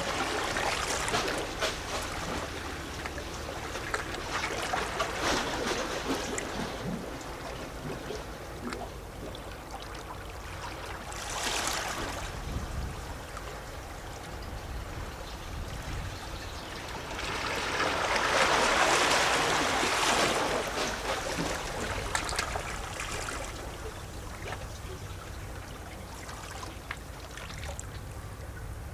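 Small sea waves lapping and splashing against a rocky shore, with sloshing and gurgling water. The washes swell and fade: a long one at the start, a short splash later, and the loudest surge about two-thirds of the way through.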